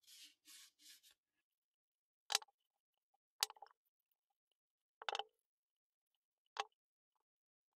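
Four sharp metallic clacks, about a second and a half apart, as parts of an old machinist square are handled and knocked together or set down. Before them come four short scraping strokes.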